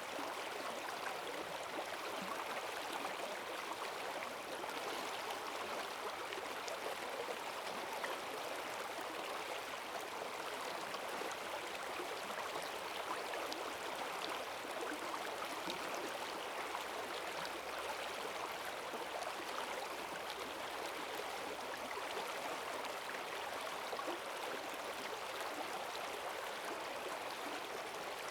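Forest stream swollen by heavy rain, running fast with a steady rush and gurgle of strong current.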